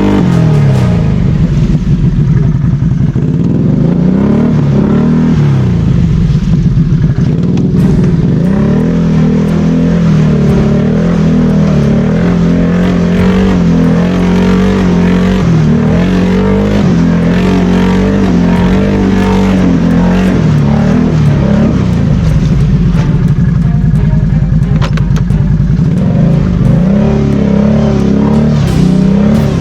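BRP Outlander 650 ATV's V-twin engine revving up and down over and over as it is worked under load, trying to drive the quad out of a bog where it is stuck.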